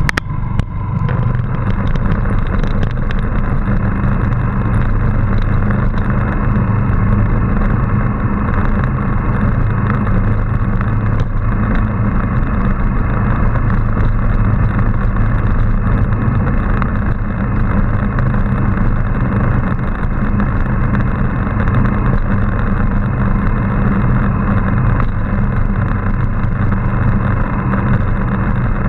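Motorcycle engine running at a steady speed under way, with a constant rush of wind and road noise. A few sharp clicks in the first second.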